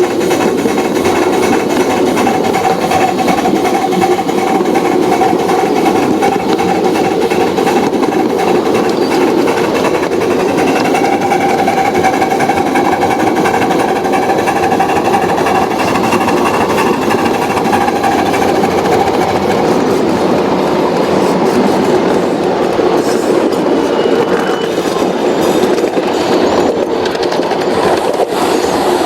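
Model train running along the layout's track: a steady, continuous rattling clatter of wheels and motor with a faint whine.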